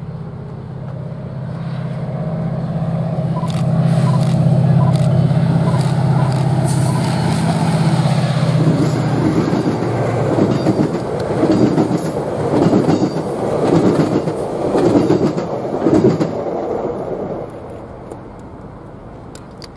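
A diesel-hauled commuter train passing close by. The locomotive's engine drone builds over the first few seconds and stays loud, then the bilevel coaches roll past with a rhythmic clatter of wheels over the rail joints, which stops abruptly near the end.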